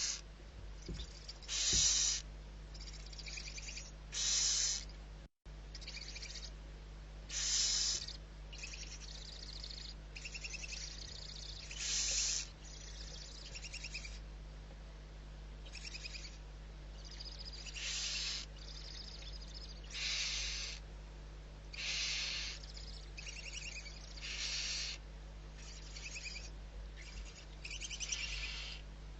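Barn owl giving hoarse, hissing calls, short bursts repeated about every two seconds.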